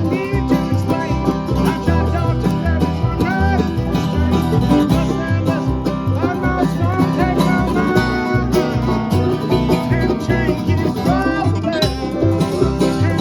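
Bluegrass band playing live, with banjo and guitar picking over a steady bass line.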